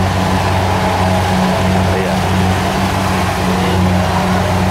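Kubota DC70 combine harvester's diesel engine running steadily under load, a deep, even hum.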